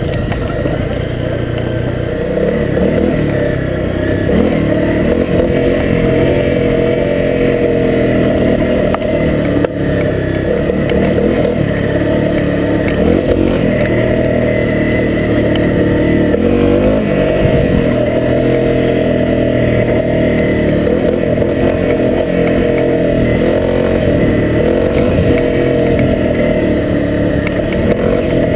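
Honda CRF250L dirt bike's single-cylinder four-stroke engine running under riding load, its pitch rising and falling again and again as the throttle opens and closes on the trail.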